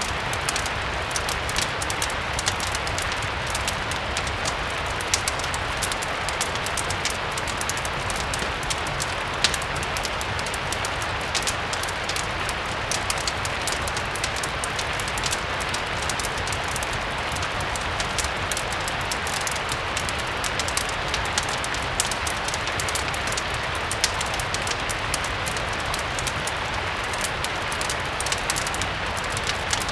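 Steady rain mixed with a crackling fireplace: an even hiss of rain with frequent small, sharp pops and ticks scattered throughout, over a low steady rumble.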